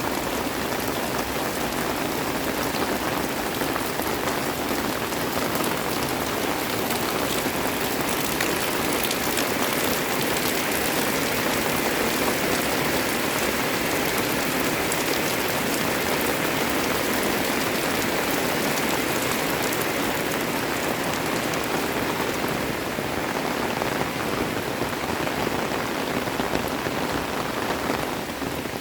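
Steady rain falling, a dense even hiss of drops spattering on surfaces.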